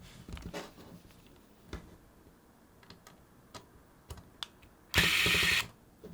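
Light clicks and taps of small parts and screws being handled, then one short run of a small electric screwdriver's motor, a bit under a second long, about five seconds in.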